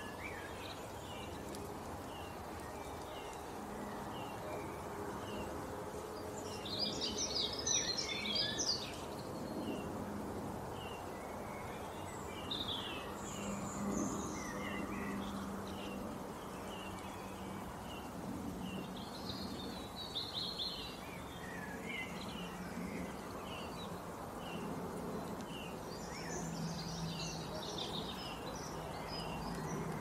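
Birds singing in several short bursts of high, quick notes, with a single short chirp repeating about once a second, over a low steady background drone.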